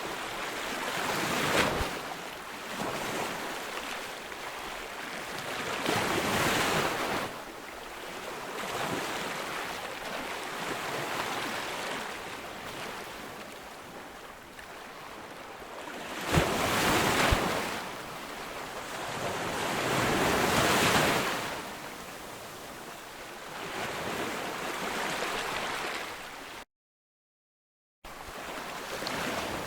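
Ocean surf breaking on a beach, each wave swelling up and washing back every few seconds, with a sharper crash of breaking water a little past the middle. Near the end the sound cuts out completely for about a second, then resumes.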